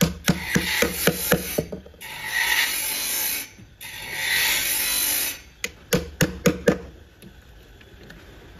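Sawmill work noise: short bursts of rasping hiss alternate with quick runs of sharp wooden clicks and knocks, about five or six in each run, and the noise dies down near the end.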